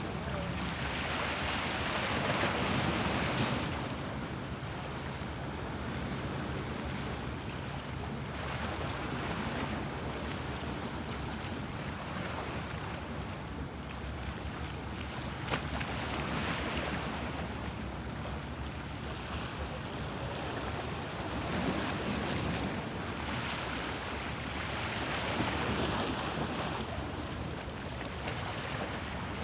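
Sea waves washing against the Bosphorus shore, surging louder every few seconds over a steady wash, with a faint low steady hum underneath.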